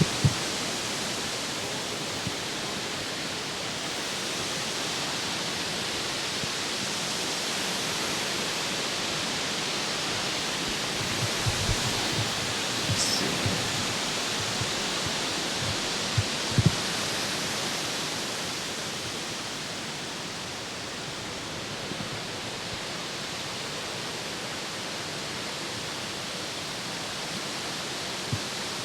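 Rain falling steadily on a lake, an even hiss, with a few soft low knocks about halfway through.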